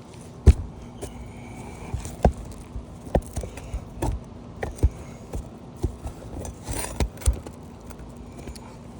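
Irregular sharp knocks and clicks of a flat bar prying roofing nails out from under asphalt shingles, the loudest about half a second in.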